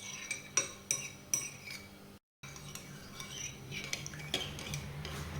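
A spoon stirring yeast into water in a bowl, clinking repeatedly against the sides. The audio cuts out briefly about two seconds in.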